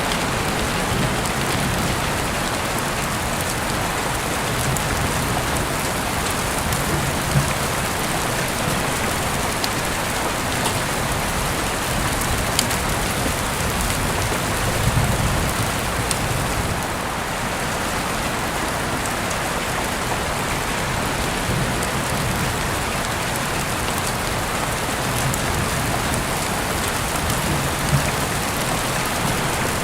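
Heavy rain falling steadily: a dense, even hiss with scattered sharper ticks of single drops.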